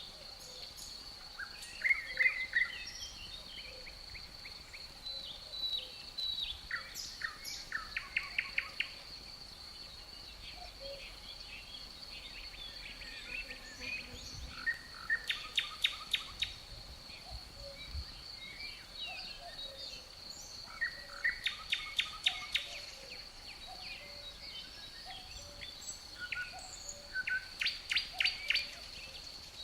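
Songbirds singing: five loud phrases of quick, repeated chirping notes come every five to seven seconds, with softer calls between, over a steady high-pitched cricket trill.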